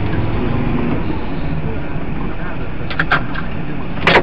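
Steady car engine and road noise heard inside the cabin, with a few short sharp clicks about three seconds in and a louder one near the end.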